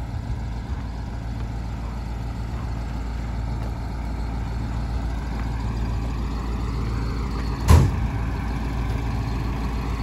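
Fire engine running steadily as it arrives, its pitch rising slightly in the second half, with one brief loud burst about three-quarters of the way through.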